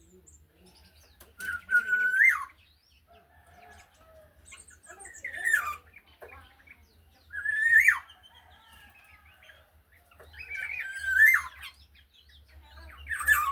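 Black-naped oriole (kepodang) singing: five loud, fluty whistled phrases of about a second each, about three seconds apart, several ending in a quick downward slur.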